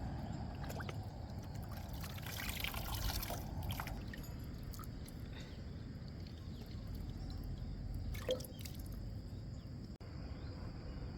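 Water trickling and dripping, with a stronger pouring rush about two seconds in and a few small knocks.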